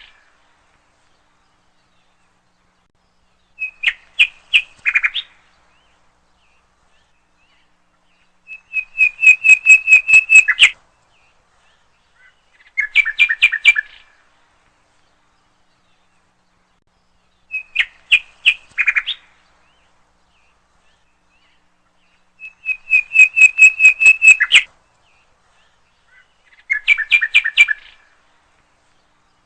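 A bird calling in six short phrases, each a quick run of repeated chirping notes lasting one to two seconds, coming about every four to five seconds.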